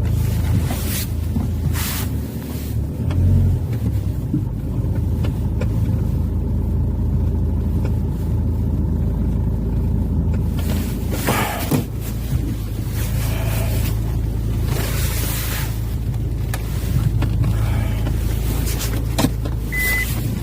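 2004 Hyundai Santa Fe's engine running with a steady low rumble, with a few brief rushes of noise over it and a short high beep near the end.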